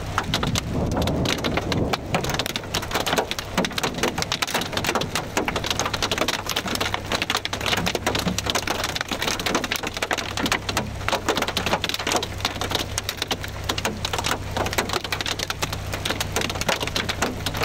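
Steady rain: a dense, rapid, irregular ticking of drops striking a surface close by, over a steady low rumble.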